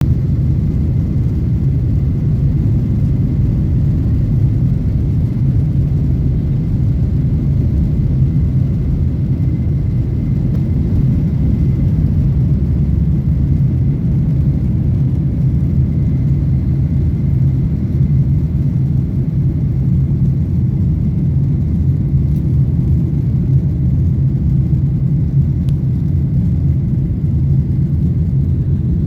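Airbus A320 airliner's jet engines during take-off: a loud, steady low rumble with a faint high steady tone above it.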